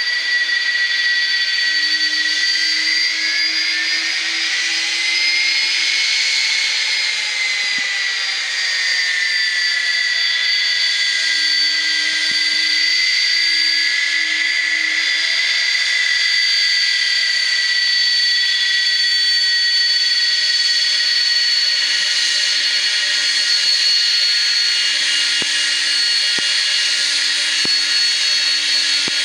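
Jet aircraft's turbofan engines running with a loud, steady high whine over a rushing noise; the whine rises slightly and settles back about five seconds in.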